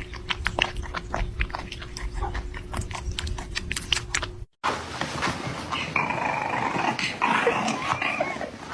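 A dog growling, with many quick clicks or taps through the first half. The sound cuts out abruptly about four and a half seconds in, and a denser, noisier animal sound follows.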